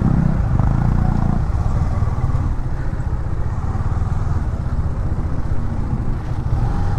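Single-cylinder engine of a KTM Duke 250 running at low speed, with other motorcycle engines close by, a little louder in the first second and a half.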